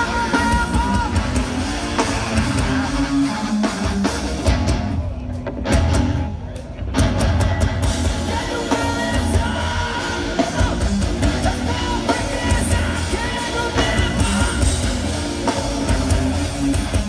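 Hardcore band playing live: distorted guitars, drums and shouted vocals, loud throughout, with a brief break in the music about five to seven seconds in.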